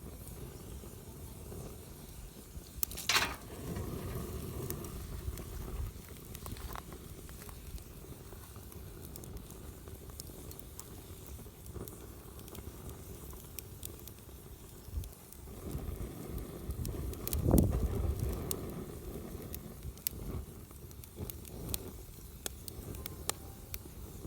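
Wood campfire burning, crackling with scattered small pops over a low steady rumble. A sharp pop comes about three seconds in, and a louder low thump about seventeen seconds in.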